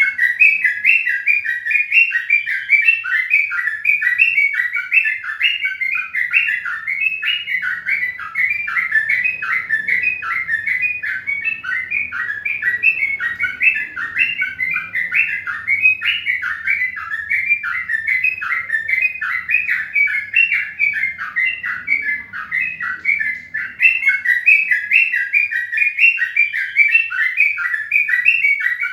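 Birds chirping without pause, a dense run of short, high chirps at about three to four a second.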